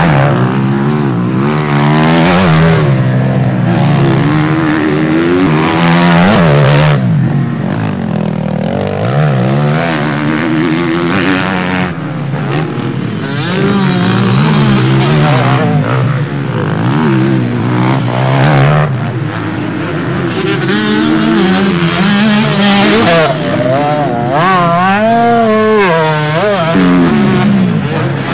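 Several motocross motorcycles racing, their engines overlapping and revving up and down in pitch as riders work the throttle and change gear.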